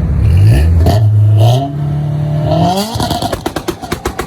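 A loud car engine revving hard under acceleration, its pitch climbing in two steps. From about three seconds in it breaks into a rapid run of exhaust pops and crackles as the throttle comes off.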